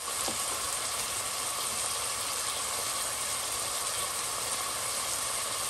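Diced onion, chili pepper and garlic sizzling steadily in hot olive oil as they sauté.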